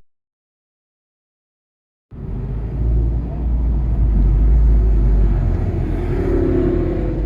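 About two seconds of dead silence, then the onboard sound of a 2017 Volkswagen GTI's turbocharged 2.0-litre four-cylinder running under way resumes abruptly: a steady engine drone over a deep rumble.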